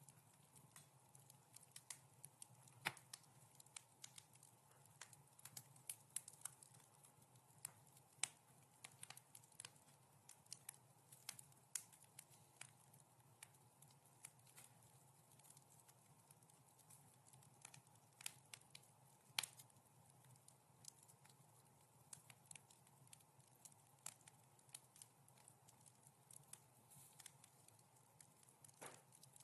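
Wood fire crackling in a fireplace: frequent irregular sharp pops and snaps over a faint steady hiss, with a louder pop about 19 seconds in.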